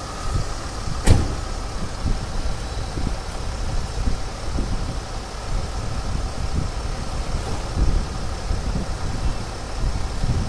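Mercedes ML 350 running at idle while its Airmatic compressor motor runs, pumping air into the newly fitted front air struts to raise the car to ride height. There is a steady low rumble, and a single sharp click about a second in.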